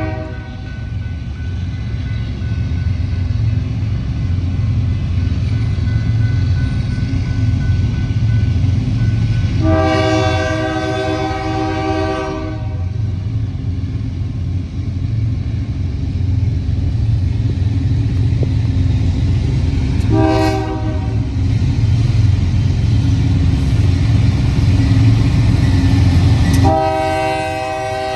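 Freight train led by Union Pacific GE diesel locomotives passing close by, engines rumbling heavily, while the lead locomotive's air horn sounds the grade-crossing pattern of long, long, short, long. The end of one long blast comes right at the start, a second long blast about ten seconds in, a short blast about twenty seconds in, and a final long blast begins near the end.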